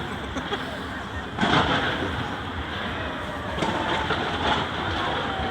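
New Year's fireworks going off: one loud bang about a second and a half in, then fainter pops, over steady background noise.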